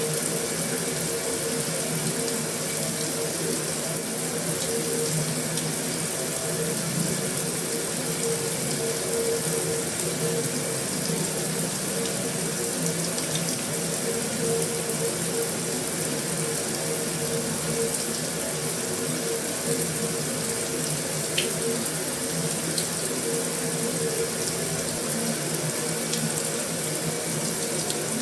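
Heavy rain falling steadily on a metal roof: an even, unbroken hiss with an occasional sharper drop tick.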